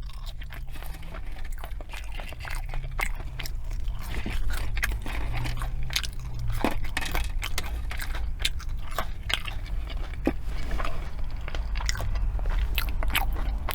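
Close-miked eating: chewing and mouth sounds with many sharp clicks and soft crunches.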